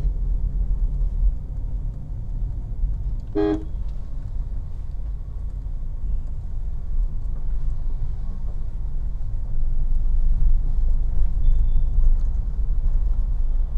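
Steady low engine and road rumble of a car being driven, heard from inside the cabin, with one short vehicle-horn toot about three and a half seconds in. The rumble grows louder over the last few seconds.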